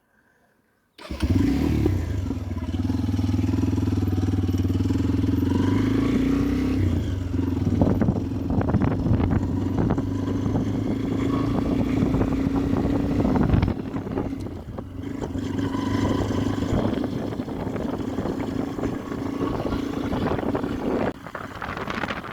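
Motorcycle engine running while the bike is ridden, starting suddenly about a second in, with a steady engine note that breaks up into rougher wind and road noise about two-thirds of the way through.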